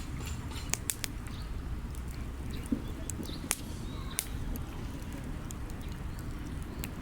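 Wood fire crackling, with about six sharp pops and snaps from the burning logs over a steady low rumble.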